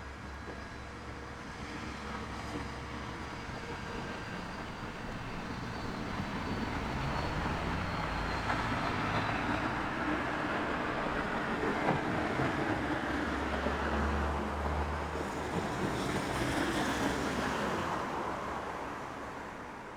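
A passing vehicle: a steady rushing engine noise that builds over several seconds, is loudest a little past the middle, and fades away near the end.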